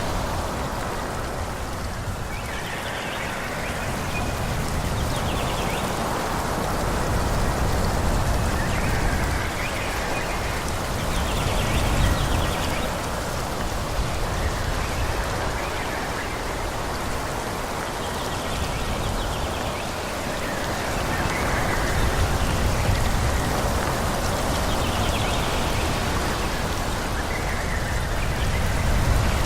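Wind blowing through forest trees: a continuous rushing of leaves with a low rumble that swells and eases in gusts.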